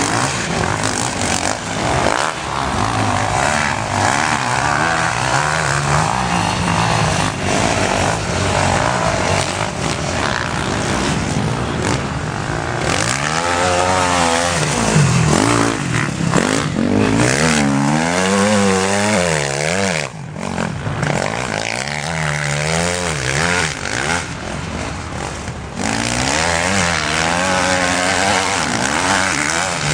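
Motocross motorcycle engines racing, revving up and dropping back again and again, with the pitch swinging up and down most clearly in the second half.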